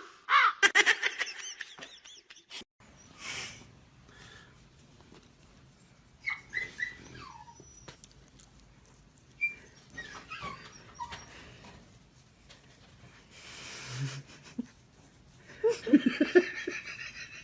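A dog whining in short, high-pitched calls now and then, with a louder burst of sound near the end.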